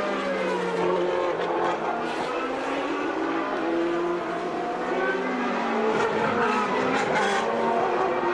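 Engines of 1989 Formula One cars, 3.5-litre naturally aspirated, running at high revs. Several engine notes overlap, their pitches rising and falling.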